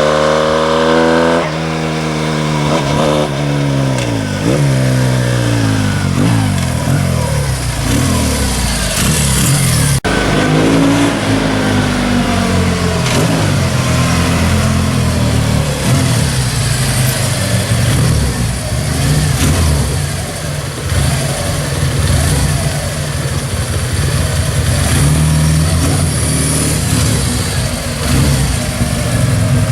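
1973 Laverda SF 750 air-cooled parallel-twin engine running at high revs, its pitch then falling in several sweeps over the first few seconds. After an abrupt change about ten seconds in, it runs at low, uneven revs with small rises and falls.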